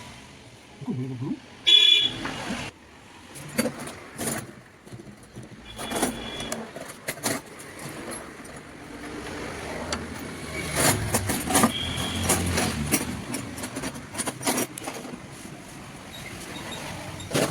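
Street traffic noise with a short horn toot about two seconds in, over irregular clatter and background voices.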